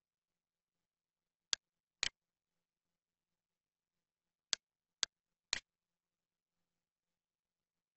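Computer mouse clicking five times: two clicks half a second apart, then three more half a second apart.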